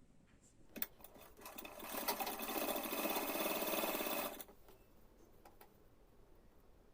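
Sewing machine running for about three seconds, stitching a short seam across joined fabric strips, then stopping abruptly; a single click comes just before it starts.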